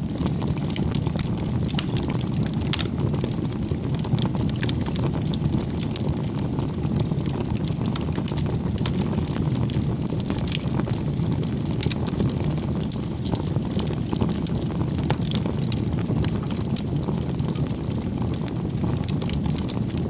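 Crackling wood fire: a steady low rumble of flames with many small, irregular pops and crackles.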